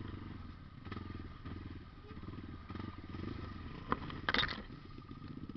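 A small engine running, its level rising and falling, with a sharp knock about four seconds in and a short loud clatter right after.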